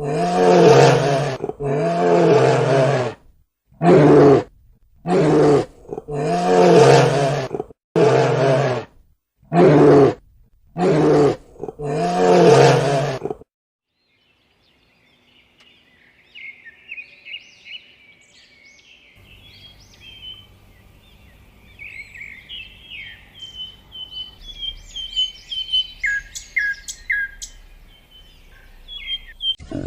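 A large animal gives about eight loud, drawn-out roaring calls in a row, each one to two seconds long. They stop about halfway through. After a short pause, birds chirp and sing in quick high notes until the end.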